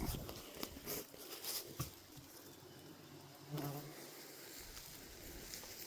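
A flying insect buzzing close by, its hum fading in and out and loudest about three and a half seconds in. A few light clicks and rustles come in the first two seconds.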